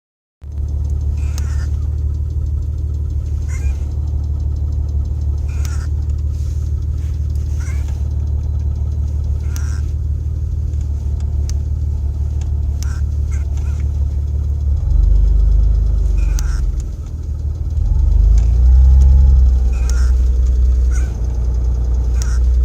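Mitsubishi Legnum VR4's twin-turbo V6 idling with a constant tapping typical of the engine before it is fully warm, and a faint click about every two seconds. About fifteen seconds in the engine note deepens and grows louder, dips briefly, then steadies under load as the clutch is engaged.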